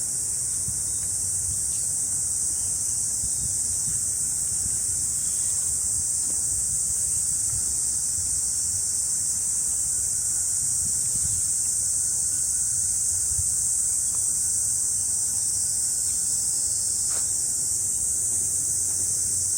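Steady, high-pitched buzzing chorus of cicadas in the summer forest, unbroken throughout.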